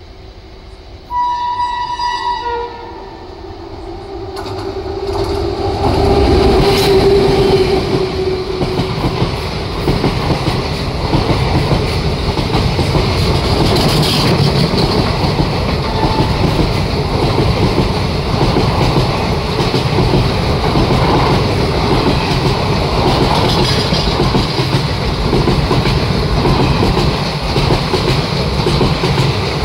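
Passenger express train arriving and passing at speed. It opens with a locomotive horn: a short high note, then a longer lower note that fades as the train comes in. Then a steady rumble of wheels and coaches clattering over the rail joints as the carriages go by.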